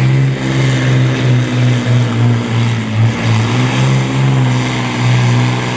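Heavy truck diesel engine of a supersport pulling truck working hard under load during a pull, its pitch holding fairly steady with small wobbles and a thin high whistle riding over it. It cuts off abruptly at the end.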